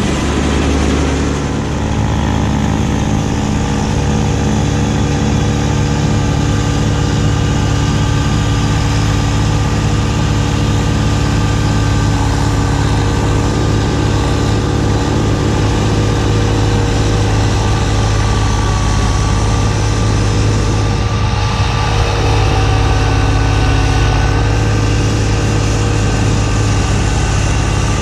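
Kubota B2601 compact tractor's three-cylinder diesel engine running steadily with its B2782B front snowblower attached, the engine note shifting slightly about three-quarters of the way through.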